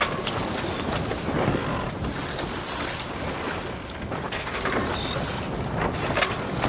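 Steady background noise aboard a crowded river car ferry, with wind buffeting the microphone and a few short, sharper sounds mixed in.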